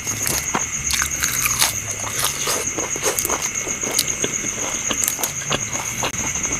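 A person chewing a mouthful of food close to the microphone: irregular crunches and wet smacking clicks, several a second.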